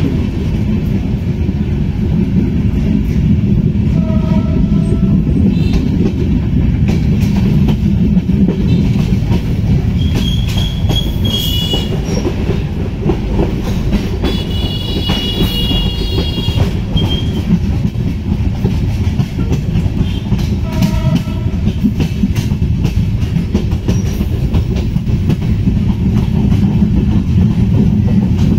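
Passenger train running along the line, heard from aboard: a steady, loud rumble of the wheels and carriage. There are a couple of brief honks and, in the middle, short high-pitched whistling tones.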